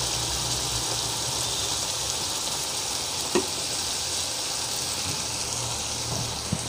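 Chopped onion, capsicum and garlic sizzling steadily in hot oil in a pan, with vinegar and green chilli sauce just added. A metal slotted spatula knocks once against the pan about halfway through and again near the end.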